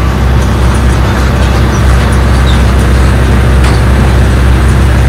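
Tractor engine running steadily, a loud, even low drone as it tows the ride along.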